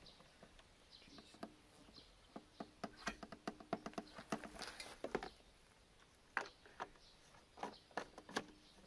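A run of light, irregular clicks and taps, thickest in the middle and again near the end, over a faint steady hum.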